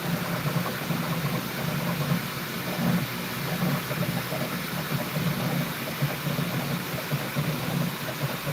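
Bambu Lab P1S 3D printer running mid-print: a steady, slightly fluttering hum with an even hiss over it.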